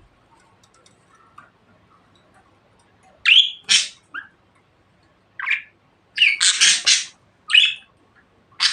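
Budgerigar giving a series of short, harsh chirps and squawks, starting about three seconds in, with a quick run of calls a little after the middle.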